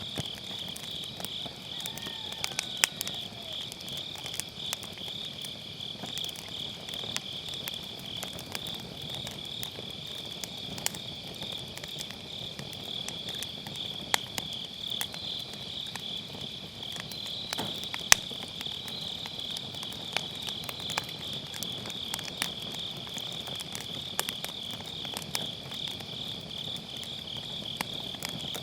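A steady, pulsing chirr from a chorus of autumn night insects, with burning firewood crackling and popping in scattered sharp snaps; the loudest pop comes about 18 seconds in.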